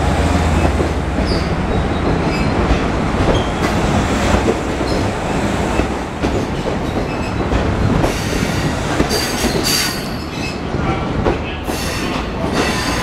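Kawasaki C3 bilevel passenger coaches rolling past at low speed, their wheels rumbling and clattering over the track. From about two-thirds of the way in come repeated clicks and high-pitched wheel squeals as the train moves off through the station trackwork.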